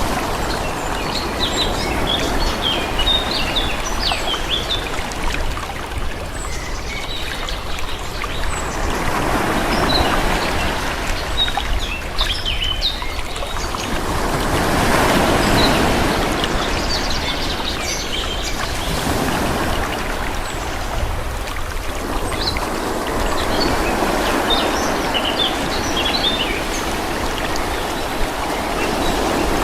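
Calm sea waves washing gently onto a shore, the rush swelling and fading every few seconds, with small birds chirping throughout.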